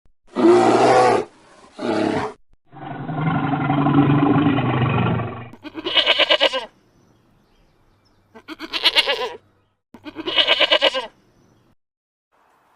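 A series of animal calls: two short calls, then a long, low, steady call lasting about three seconds, then three short calls about two seconds apart, each made of rapid pulses.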